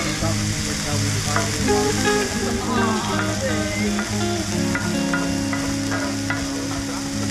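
Diced vegetables and minced meat sizzling in a cast-iron skillet, stirred and scraped around the pan with a wooden spatula.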